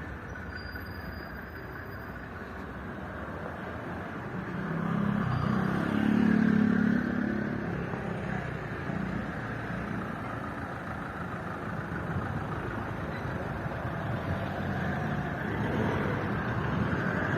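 Outdoor street ambience with a motor vehicle passing, loudest about five to seven seconds in, then fading back into a steady background rumble.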